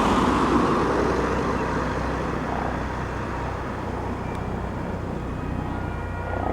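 Eurocopter EC135 helicopter running steadily in flight, its rotor and turbine sound easing slightly over the first few seconds.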